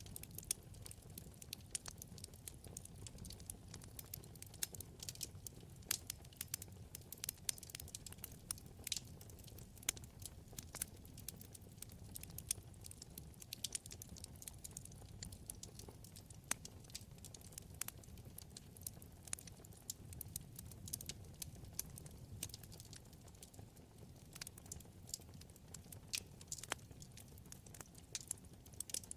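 Wood fire burning in a fireplace: many small, irregular crackles and pops over a soft, steady low rumble of flame.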